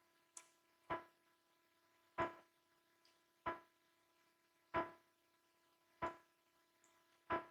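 Six soft knocks at an even pace, about one every 1.3 seconds, each fading quickly, over a faint steady hum.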